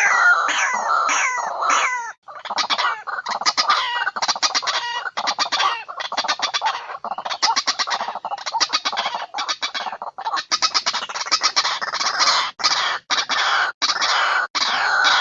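White-breasted waterhen (ruak-ruak) calling loudly and without let-up in a recorded lure call: harsh falling notes, a brief break about two seconds in, then long runs of rapid stuttering croaks.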